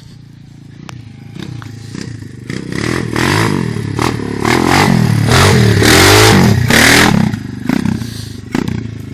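250 cc dirt bike engine revving up through the gears, its pitch climbing and dropping back several times as it grows louder. It is loudest about six seconds in, then falls away.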